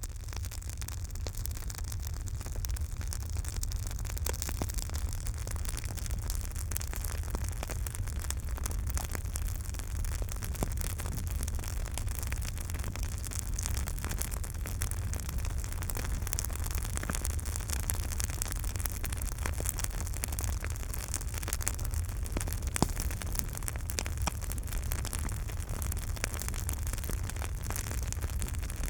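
Campfire burning, with wood crackling and popping in many small clicks over a steady low rumble of the flames. Two louder pops stand out, one about eleven seconds in and one near twenty-three seconds.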